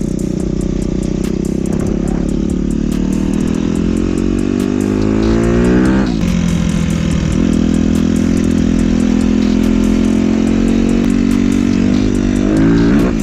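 2015 Suzuki RM-Z250's four-stroke single-cylinder engine under way, its pitch rising as it accelerates and dropping sharply at a gear change about six seconds in. It then holds steady before climbing to another shift near the end.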